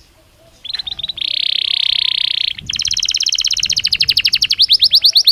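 Belgian canary singing. After a brief pause it gives a few quick notes, then a fast unbroken trill, and from about halfway a rapid run of repeated rising notes, about ten a second.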